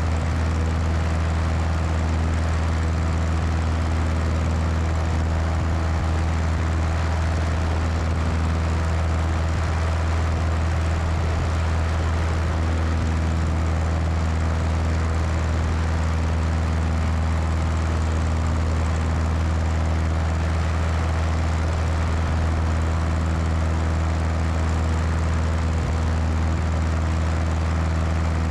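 Cessna 172's piston engine and propeller running at a steady power setting with a constant low drone, mixed with the steady rush of wind over a wing-mounted microphone.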